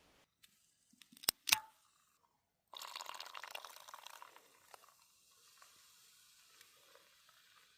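Two sharp clicks, then cola poured into a cup. The pour starts suddenly about three seconds in, and its fizz dies away to a faint hiss.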